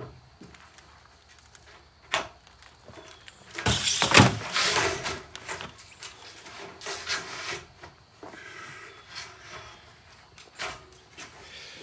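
Tin roofing panels being handled by hand: a sharp knock about two seconds in, then a louder stretch of metal scraping and rattling as sheets are slid and set down, with smaller knocks and scrapes after.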